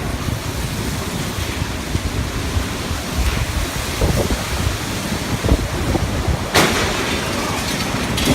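Typhoon wind blowing in strong gusts with rain, buffeting the microphone with a heavy rumble. A sudden louder rush comes about six and a half seconds in.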